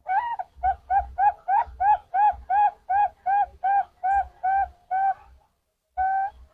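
Zebra dove (perkutut) cooing: a quick run of about sixteen short coos, about three a second, then after a short pause one longer, held coo near the end.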